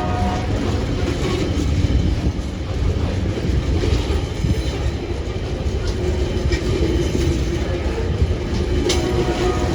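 TasRail freight train passing, its wagons rolling over the rails with a steady, loud rumble and clatter.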